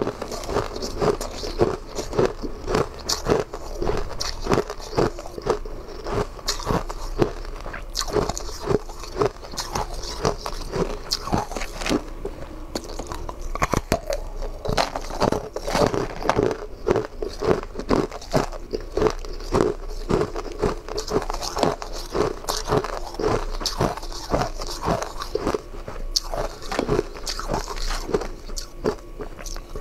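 Close-miked biting and chewing of frozen sweets and ice: a dense run of sharp crunches, several a second.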